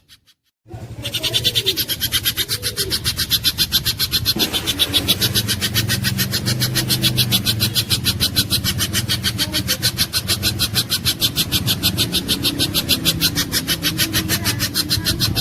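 Spiderhunter calling a fast, even run of sharp high notes, several a second without a break. A steady low hum runs underneath.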